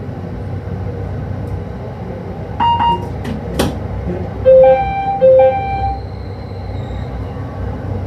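Electric commuter train running with a steady low rumble. A short beep comes about two and a half seconds in, then a couple of clicks, and near the middle two short two-note horn blasts sound.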